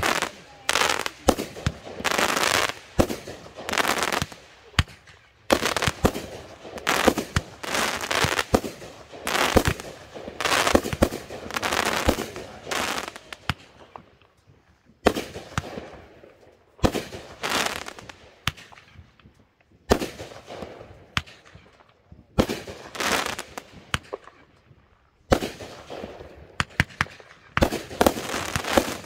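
Consumer fireworks going off in a rapid run of sharp bangs, each trailing into crackle and hiss, with a lull about halfway through before the bursts pick up again.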